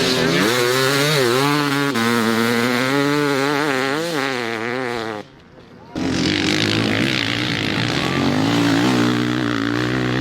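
Enduro motorcycle engine running under changing throttle, its pitch rising and falling again and again. The sound drops out abruptly for under a second about five seconds in, then the engine comes back.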